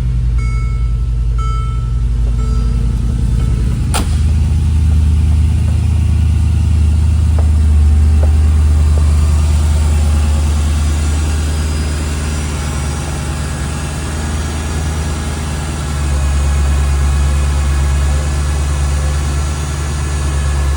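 2013 Mercedes G550's V8 with its sport exhaust running at a steady fast idle just after a cold start, the low exhaust note swelling about four seconds in and again near the end. A few short electronic beeps sound in the first three seconds, and a sharp click about four seconds in.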